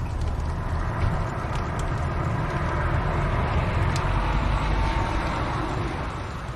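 Wood fire burning in a fireplace: a steady low rumble under a broad hiss that swells and eases again, with faint scattered crackles.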